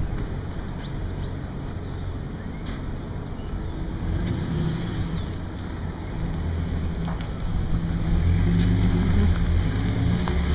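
Street noise: a steady low rumble of vehicle engines mixed with wind on the microphone, growing louder near the end.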